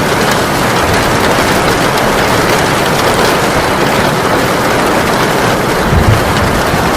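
Heavy rain pouring down in a steady, dense hiss. About six seconds in, a low rumble of thunder begins to swell underneath it.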